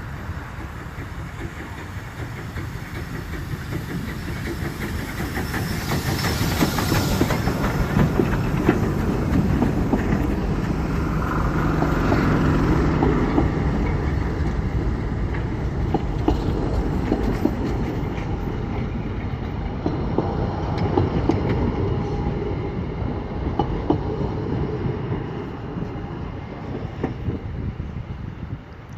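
Narrow-gauge park railway train running past, wheels clicking over the rail joints. It grows louder to a peak about ten seconds in, then fades toward the end.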